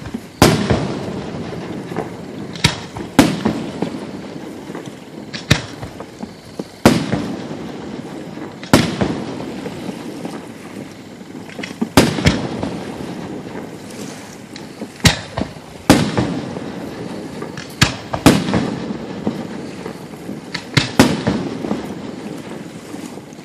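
Aerial fireworks shells bursting overhead: a dozen or so loud booms at irregular gaps of one to three seconds, each trailed by rumbling echo and crackle.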